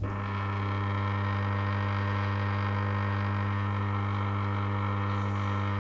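Two-speed capacitor-run washing machine motor switching on abruptly and running with a loud, steady electrical hum: a low drone with many overtones above it.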